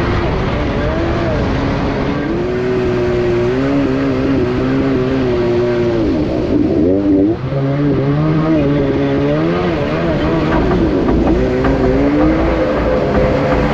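Two-stroke jet ski engine running under throttle, its pitch rising and falling as the revs change, with a brief drop in revs about seven seconds in before it picks up again.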